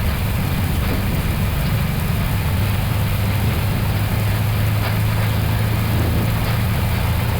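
Airbus A321neo at takeoff thrust during the takeoff roll, heard from the flight deck: a steady, loud rumble of engines, airflow and wheels on the runway as the jet accelerates past 100 knots toward V1.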